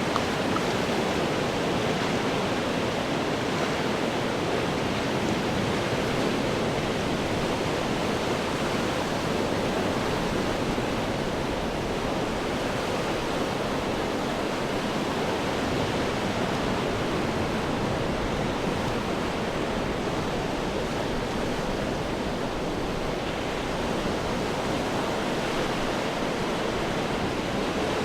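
Ocean waves breaking on rocks: a steady, unbroken wash of surf in which no single crash stands out.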